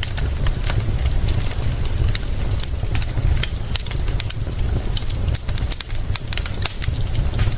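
Wood fire crackling, with many quick, irregular sharp pops over a steady low rumble.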